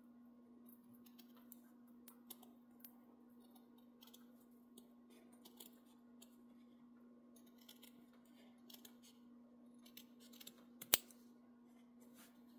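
Small scissors snipping now and then as fabric and threads are trimmed, one sharper click about eleven seconds in, over a steady faint hum.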